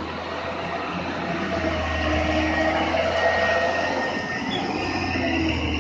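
Heavy truck crawling over a rough, bumpy road: the engine running at low speed under a continuous rattling noise, with a few brief thin squeaks.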